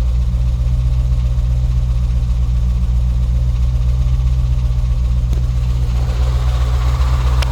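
Hemi V8 idling in neutral with a rhythmic knock from a broken flex plate. The knock sounds as if it were in the engine, and it goes away when the transmission is in drive or reverse, under load. A little after halfway, a rougher mid-pitched rattle builds in.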